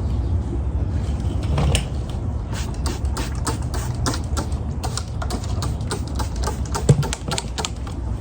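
Rapid, irregular light clicks and taps, several a second, over a steady low rumble.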